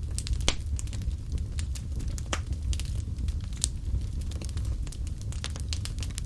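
Wood fire crackling and popping, with sharp irregular snaps over a steady low rumble of the flames.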